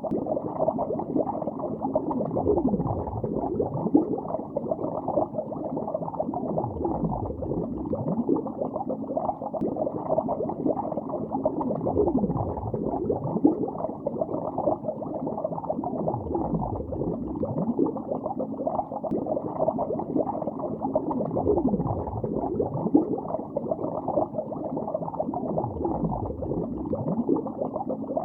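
Continuous underwater bubbling, heard muffled with nothing above the mid range. A low swooping dip comes round every four to five seconds.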